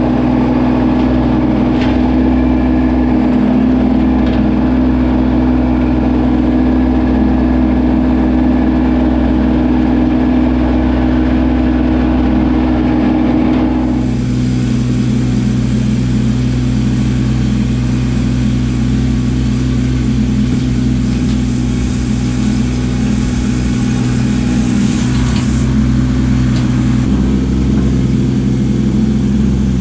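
Kubota LX2610 compact tractor's three-cylinder diesel engine running steadily. About halfway through its sound changes and the higher, rougher noise drops away; near the end it shifts again.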